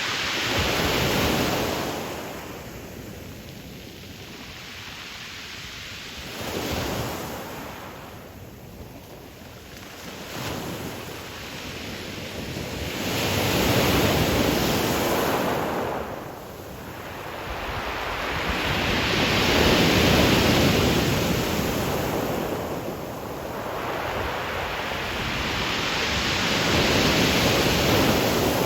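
Ocean surf breaking on a pebble beach, rising and falling in slow surges with several loud crests and quieter lulls between them.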